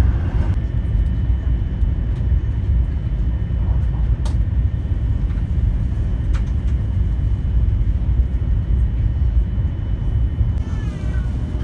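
Steady low rumble of a Taiwan High Speed Rail train running at speed, heard from inside the passenger cabin, with two faint clicks about four and six seconds in.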